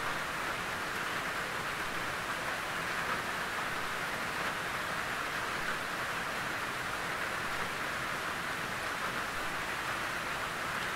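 Steady gentle rain pattering on a tin roof, an even hiss of drops strongest in the upper middle.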